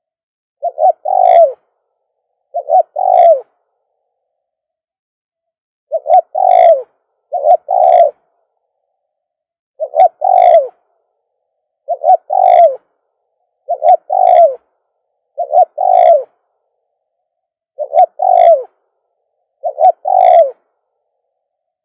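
Spotted dove cooing: about ten short phrases, each a brief note then a longer coo, repeated every couple of seconds.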